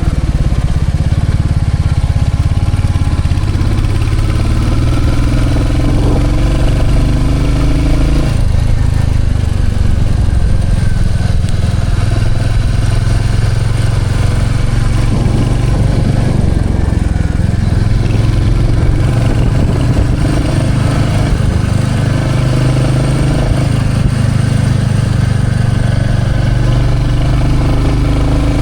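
Motorcycle engine running steadily under way, its pitch rising and falling with the revs.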